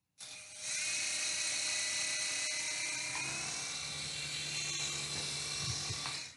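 Small electric motor and rotors of a toy RC helicopter whining at a steady high pitch, swelling about half a second in and cutting off suddenly near the end.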